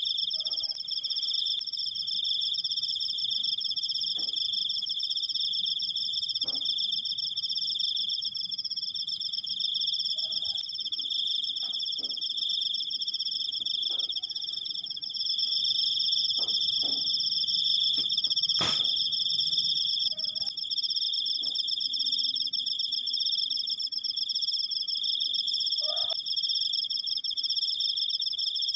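Cricket giving one long unbroken trill, steady and high-pitched throughout, with a single sharp click about two-thirds of the way through.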